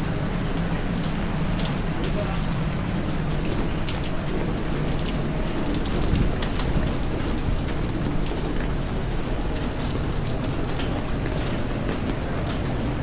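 Steady heavy rain falling, with many separate drops heard striking close by.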